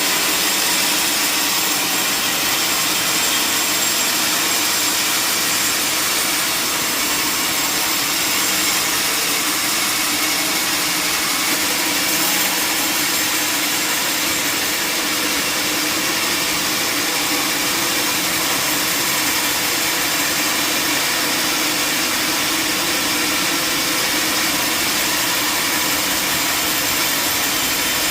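Sawmill saw cutting through a large log, a steady, unbroken machine noise with a high, hissing edge and a constant drone under it.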